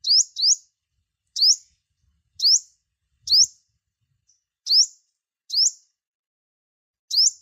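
A songbird's short, rising whistled chirps, given singly about once a second, eight in all, with two close together at the start. It is a 'chim 5 màu' call track of the kind played to stimulate caged, wild-caught birds into singing.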